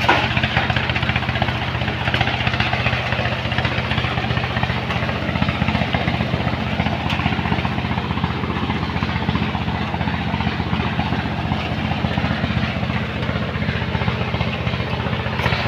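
Engine of a heavy sand-loading machine running steadily at constant speed, a low even drone with a fast pulse, under a steady rushing hiss.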